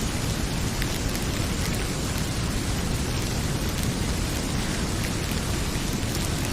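Heavy rain pouring steadily, a dense even hiss, with a few faint crackles from a wood fire scattered through it.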